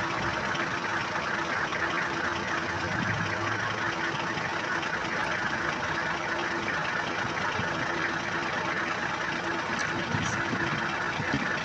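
Safari vehicle's engine running steadily, with a faint constant hum beneath a broad, even noise.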